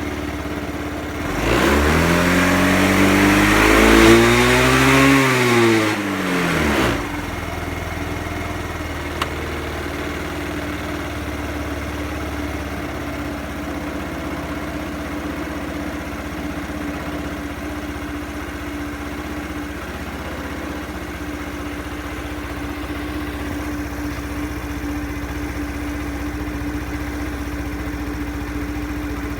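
Yamaha Cygnus X scooter's 125 cc single-cylinder four-stroke engine running after a tappet (valve clearance) adjustment. About a second and a half in, the throttle is blipped once: the engine note rises and falls back over about five seconds, then it settles into a steady idle.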